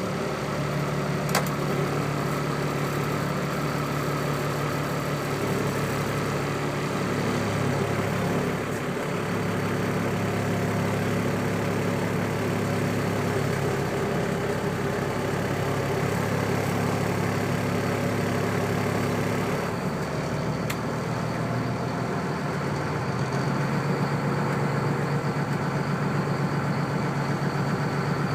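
Caterpillar C7 diesel engine in a Freightliner M2 truck idling after a cold start. The idle holds steady but its pitch shifts a few times, stepping down about two-thirds of the way through and changing again shortly after.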